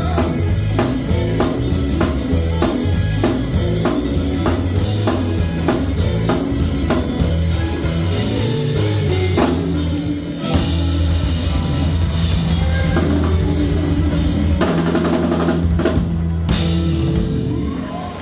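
Live gospel band music: a drum kit keeping a steady beat of about two strokes a second over a strong bass line, ending about a second and a half before the close.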